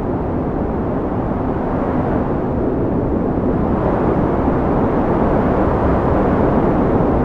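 Strong wind blowing as a steady low rushing roar that slowly builds in strength.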